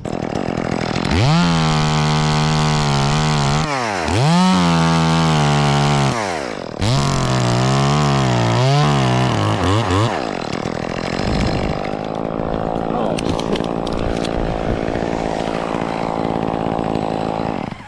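Chainsaw revving to full throttle and cutting into fir wood, its pitch dipping and recovering a few times as the chain loads in the cut. About halfway through it drops back to a lower steady run, then stops abruptly near the end.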